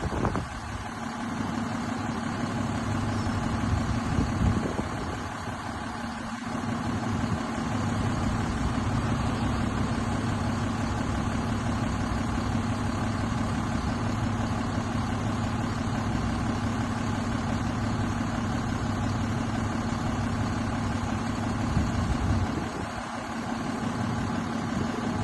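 DAF CF 290 truck's diesel engine idling steadily.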